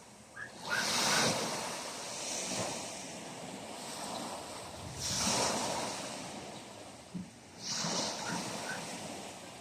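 Sea waves washing in, with four swells of surf a couple of seconds apart.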